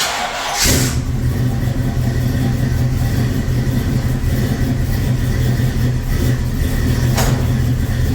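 Old-school carbureted car engine cold-started: a short crank, then it catches under a second in and runs steadily and loud. A brief rush of noise comes about seven seconds in.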